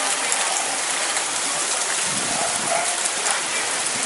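Heavy rain pouring down during a thunderstorm, a dense steady hiss.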